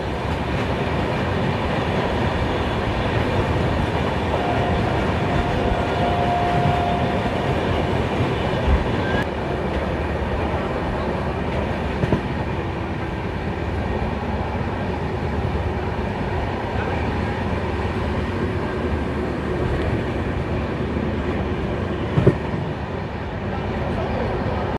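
Passenger train running steadily on the line: a continuous rumble of wheels on rails, with a few sharp knocks from the track along the way.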